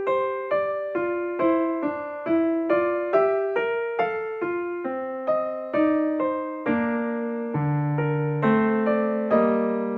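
Background music: a gentle electric piano playing a steady melody of single notes, about two or three a second, with a bass line joining in the second half.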